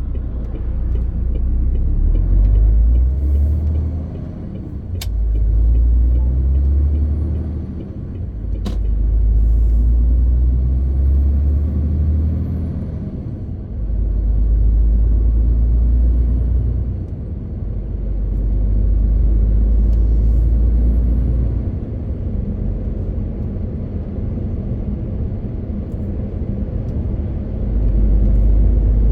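MAN TGX 18.520 truck's six-cylinder diesel engine running while driving: a deep rumble that swells and eases about half a dozen times. Two sharp clicks come about five and nine seconds in.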